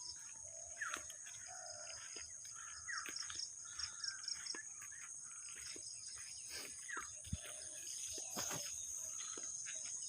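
Rural morning outdoor ambience: a steady high insect trill, with scattered bird chirps and calls throughout.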